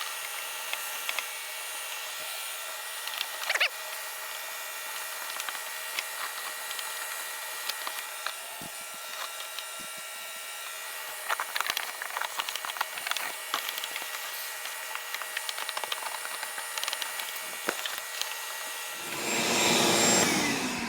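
Vacuum cleaner running with a steady whine, sucking dirt and debris out of an old wooden dock with scattered clicks and rattles. A louder rushing sound swells near the end.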